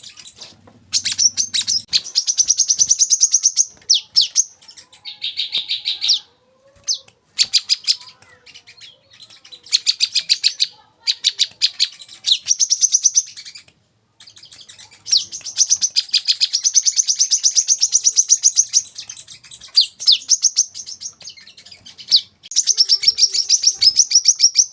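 Brown-throated sunbird (kolibri kelapa) singing: fast, high chirping trills in repeated phrases of one to three seconds, with short pauses between them.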